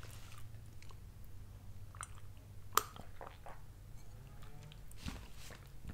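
Quiet chewing of crunchy, hollow veggie straw snacks, with small crackles and one sharp click about halfway through, and a sip of water from a glass.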